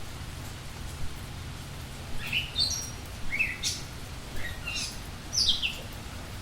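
Budgerigar chirping: a quick series of short, high chirps that begins about two seconds in, over a steady low hum.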